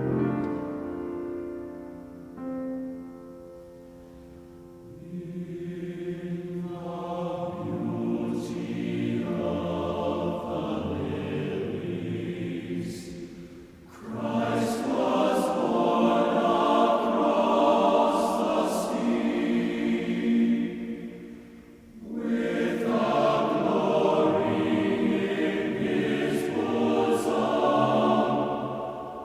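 Music with a choir singing long held chords. It fades low after the start, builds again from about five seconds in, and drops briefly about fourteen and twenty-two seconds in.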